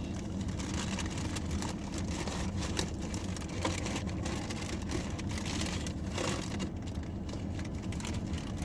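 Subway sandwich wrapper crinkling and rustling in many short snaps as it is handled and unfolded, over a steady low rumble.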